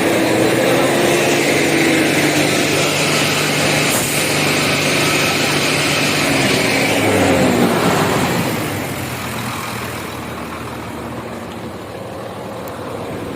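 Diesel truck engine held at high revs on homemade used-cooking-oil biodiesel, then dropping back about eight seconds in and running on quieter at low revs. It is running on the last fuel left in its fuel filter.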